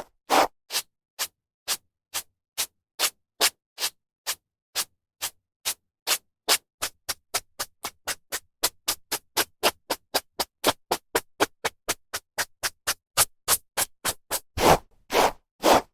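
Hairbrush drawn through hair in short strokes with silence between them, about two a second at first, quickening to about four a second, then a few longer, louder strokes near the end.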